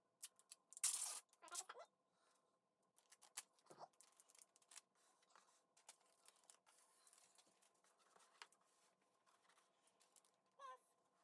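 Faint craft work: scattered clicks, scrapes and snips of cardboard and craft materials being handled and cut, with a louder rasping burst about a second in.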